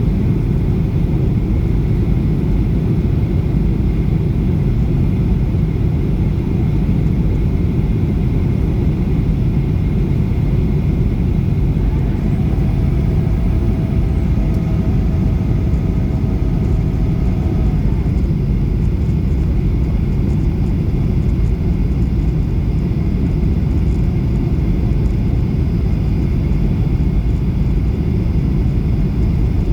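Airplane noise: a steady, heavy low rumble, with a faint high hum from about twelve to eighteen seconds in.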